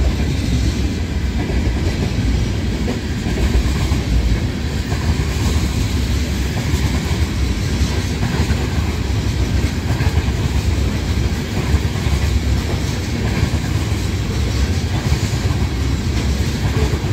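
Freight cars of a westbound Union Pacific train rolling past steadily.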